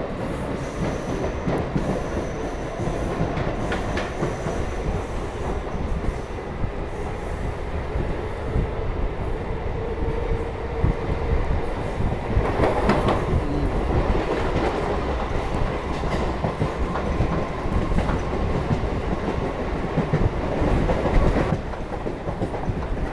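Chennai EMU suburban local train running at speed, heard from aboard: a steady rumble of wheels on the rails with rhythmic clatter, growing a little louder about halfway through.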